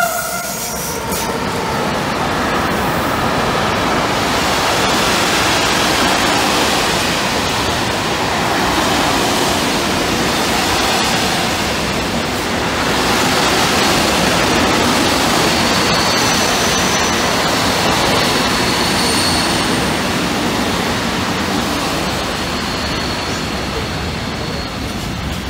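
Long freight train of open wagons running through a station behind an E191 electric locomotive: a steady rumble of wheels on rails, with faint high wheel squeal in the second half. The tail of a horn note is heard at the very start.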